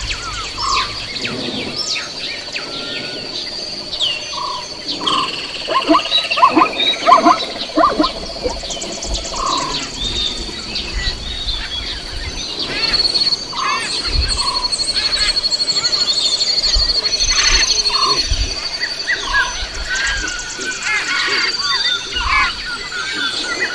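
Many birds calling and chirping in quick, overlapping short calls, busiest and loudest about a quarter of the way in, over a steady high-pitched whine.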